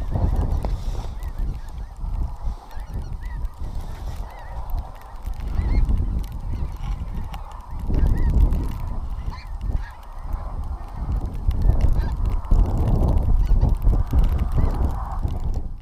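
A flock of wild geese calling, many overlapping voices that grow louder in the last few seconds, over a heavy low rumble.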